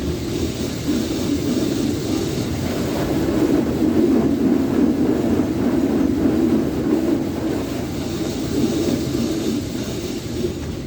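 Jim Coleman Water Wizard 1.0 automatic car wash running with a steady rushing rumble. It grows louder toward the middle and then eases off.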